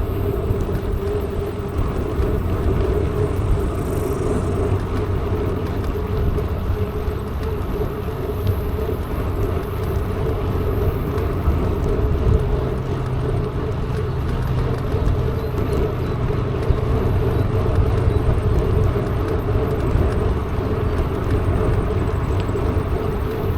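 Mountain bike rolling along with a steady rumble of tyres and wind rushing over the microphone, unbroken throughout.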